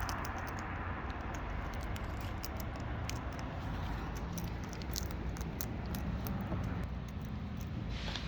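Irregular light clicks and taps of wild parrots pecking at and cracking seed, over a steady low rumble.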